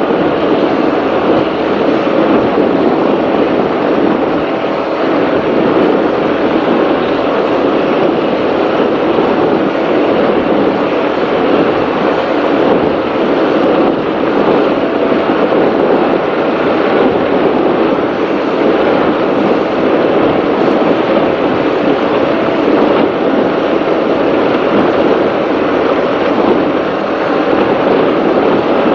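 Offshore racing powerboat running at speed, heard onboard: a loud, steady engine and rushing-water noise.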